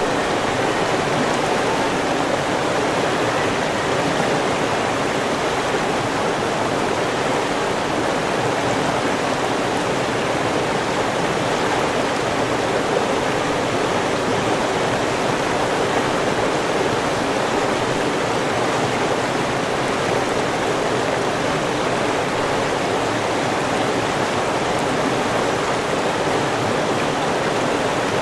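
River water rushing steadily, an even, unbroken flow with no distinct splashes or other events.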